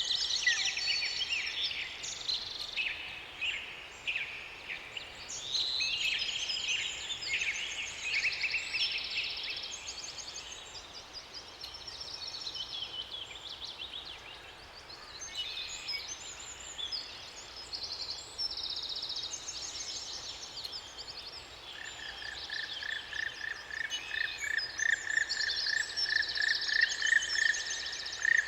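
Several songbirds singing at once, their quick chirps and warbles overlapping. About two thirds of the way in, a steady, rapidly pulsing trill at one pitch joins them and grows louder toward the end.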